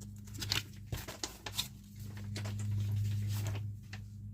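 Crackling rustle of a paper instruction sheet being handled and unfolded, in irregular bursts, over a steady low electrical hum.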